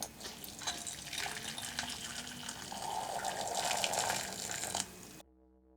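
A pan of boiling water and soda for paint stripping, bubbling and hissing with many small clicks and splashes, louder in the middle. It cuts off suddenly near the end and soft brass music begins.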